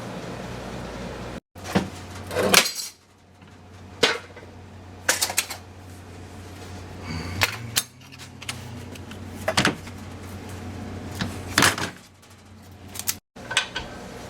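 Scattered clinks and knocks of small hard objects being handled and set down, some ringing briefly, over a steady low hum.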